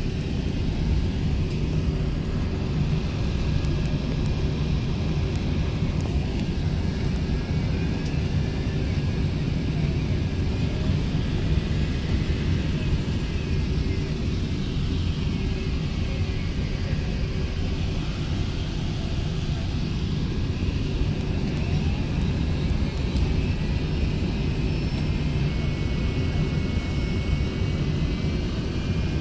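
Steady low rumble of an Airbus A380's jet engines, with faint higher tones gliding up and down.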